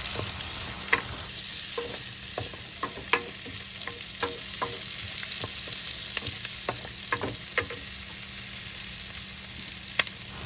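Garlic and onion sizzling in hot oil in a pan, with a utensil clicking and scraping against the pan as they are stirred; a sharper knock comes about three seconds in and again near the end.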